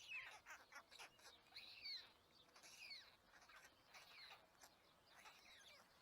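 Birds at a nest chirping: short calls that slide down in pitch, about one a second.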